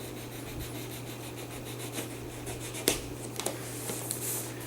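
Hands working a cardboard retail box open: rubbing and scratching at the box and its seal, with a sharp click about three seconds in and a brief scrape near the end. A steady low hum runs underneath.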